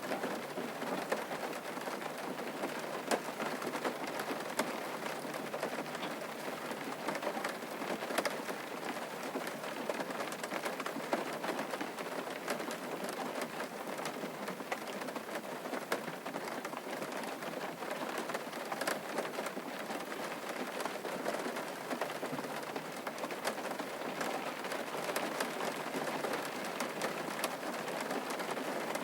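Steady rain falling on a surface, with many individual drops ticking sharply throughout.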